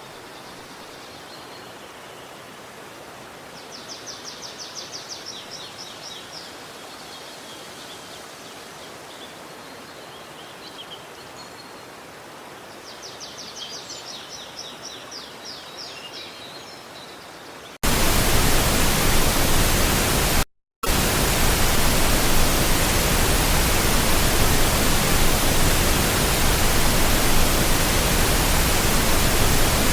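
Quiet forest ambience with a small bird singing rapid high trills twice. About two-thirds of the way in, a loud, even rushing hiss cuts in suddenly and continues, broken once by a split-second dropout.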